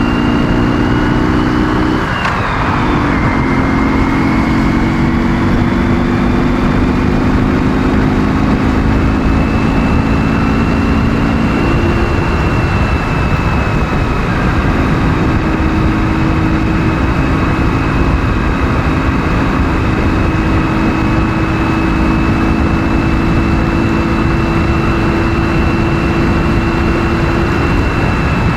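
Ural motorcycle's 650 cc flat-twin engine running steadily under way. About two seconds in, the engine note breaks and settles lower, as at a gear change.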